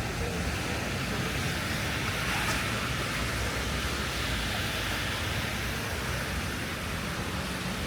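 Wet street in the rain: a steady hiss with a low traffic rumble underneath, the hiss swelling for a few seconds in the middle like tyres passing on wet pavement.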